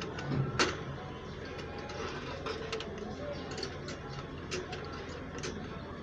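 Irregular light clicks and taps from budgie cages, a few seconds apart, over a steady low hum, with a few faint chirps.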